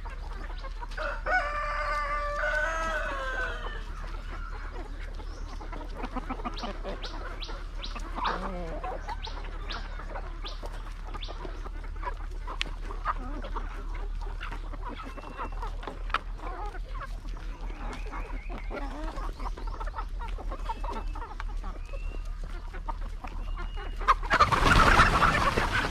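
Free-range chickens clucking, with a rooster crowing once early on as one long call, and scattered clicks and short high chirps through the middle. A brief loud rush of noise comes near the end.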